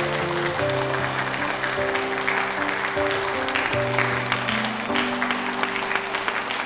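Audience applauding steadily over background music, a slow score of sustained chords that change every second or so.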